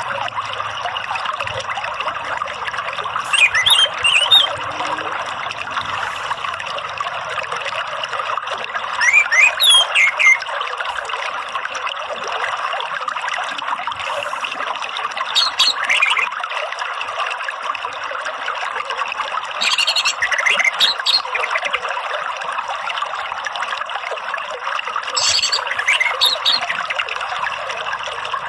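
Steady trickling, running water. Over it an orange-headed thrush sings five short phrases of sliding whistled notes, spaced about every five to six seconds.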